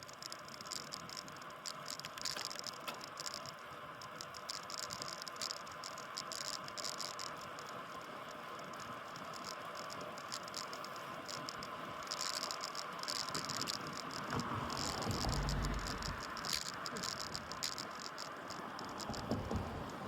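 Bicycle riding on a road, heard through the phone mounted on the bike: a steady rush of wind and road noise with quick rattling and ticking from the bike and mount. A low rumble swells about 14 seconds in and fades.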